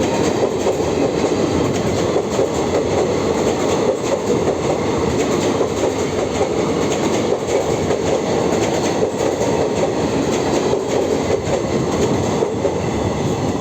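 The coaches of the 09003 Mumbai Central–Madgaon Ganpati special passenger train rolling past, a loud steady rumble with wheels clattering over the rail joints.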